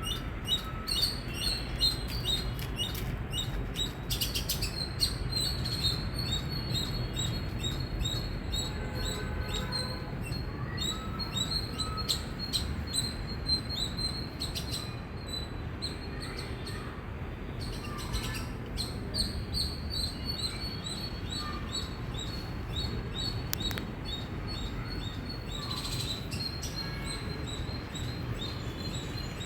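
Indian palm squirrel chirping: a long run of short, high, bird-like chirps repeated several times a second, with brief pauses.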